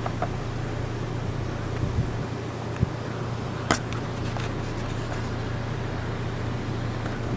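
A vehicle engine running steadily, a low hum under a haze of wind-like noise, with two sharp clicks about three and four seconds in.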